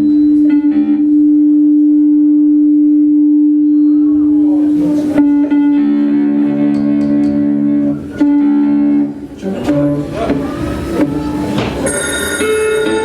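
Guitar music: a long steady held note with its overtones, a busier stretch of picked notes, then a new, higher held note near the end.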